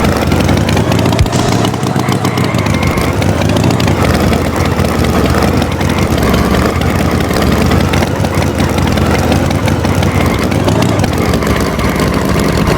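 Tractor engine running steadily, its pitch drifting up and down a little.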